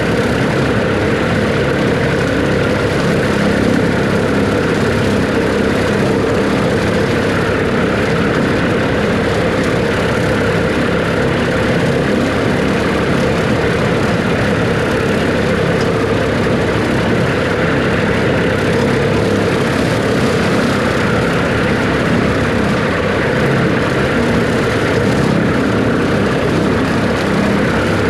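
Farm tractor's diesel engine running steadily under load, a loud, unbroken drone.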